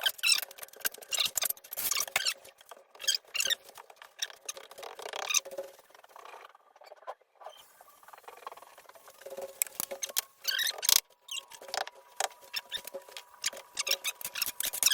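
Dense, irregular scratching and clicking from hands-on work with tools and materials, with a quieter pause in the middle and a faint steady tone near the end.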